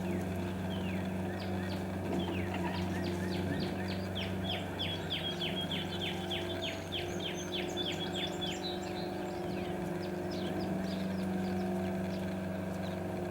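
Northern cardinal singing a fast series of down-slurred whistled notes, about four a second for some five seconds, with scattered bird calls around it. A steady low hum runs underneath.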